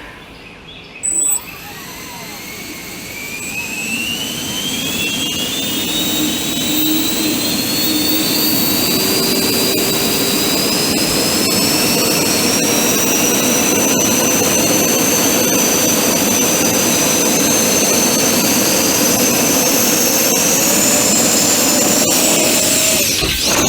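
Four 50 mm 12-blade electric ducted fans on a 3D-printed quadcopter spooling up and running with a loud, high whine whose pitch climbs slowly as the throttle rises, then rises further near the end before cutting off suddenly. A short high beep sounds about a second in, before the fans spin up.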